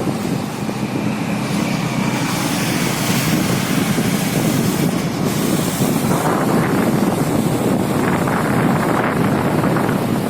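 Steady rush of wind on the microphone mixed with engine and road noise from a moving motorcycle.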